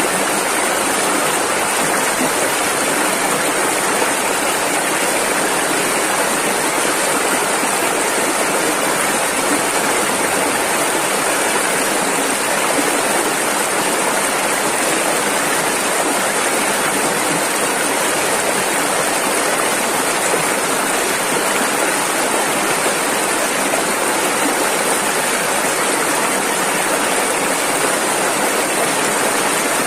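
Rushing river: fast water flowing over rapids in a steady, unbroken rush.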